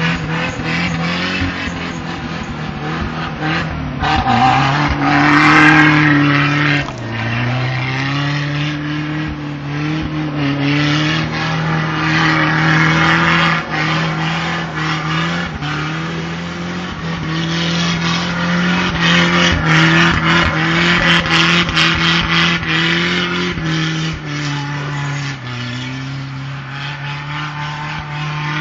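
Car engine revving up and down repeatedly under load while doing donuts, with the hiss of tyres spinning in snow. The revs dip low around five to eight seconds in, then climb and fall again several times.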